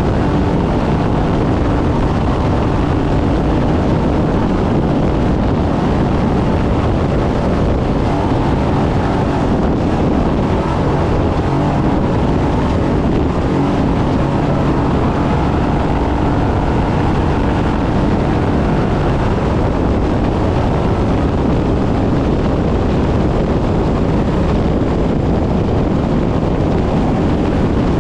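Trophy truck driven hard off-road: its engine runs under load, buried in a loud, steady roar of wind and terrain noise.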